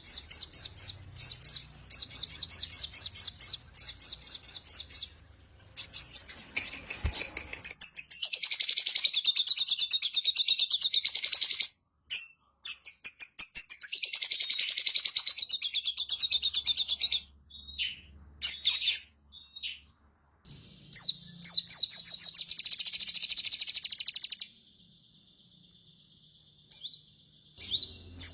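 Sogon songbird singing: long runs of rapid, high-pitched trilled notes broken by short pauses, with a quieter stretch near the end.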